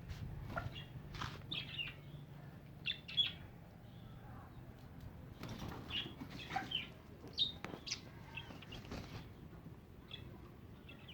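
Aviary birds chirping in short, scattered high calls, with a few brief rustles and wing flaps among them.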